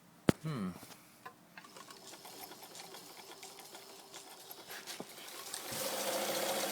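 Morse electric sewing machine: a sharp click near the start, then the machine runs, quiet at first and then louder and steady from about five seconds in, needle going up and down smoothly: the machine is working.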